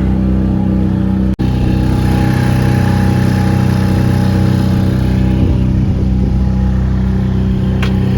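Boat engine running steadily at constant speed, with a short break about a second in.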